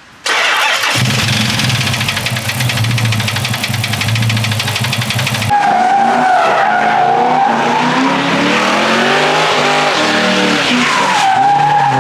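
Car doing a burnout: the engine is held at high revs with a rapid, rasping exhaust, and about halfway through a wavering tire squeal comes in over it.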